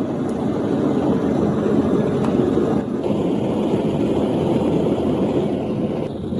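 Electric power tool, such as a grinder or buffing wheel, running steadily, with a higher edge to the sound from about three seconds in until shortly before the end.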